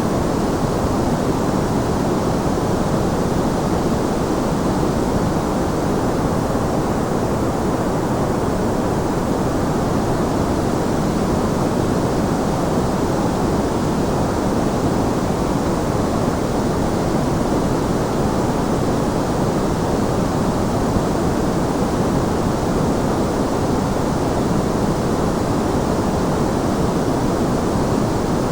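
Continuous white noise: a steady, even hiss with no changes, fullest in the low and middle range.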